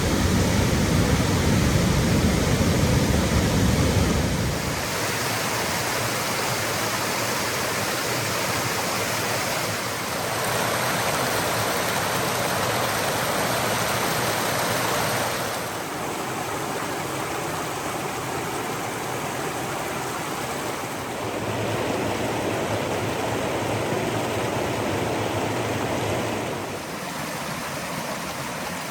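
Waterfalls and cascades swollen with spring snowmelt, rushing over rock: a steady roar of water that steps up and down in loudness and tone every five or six seconds, with a deeper rumble in the first four seconds or so.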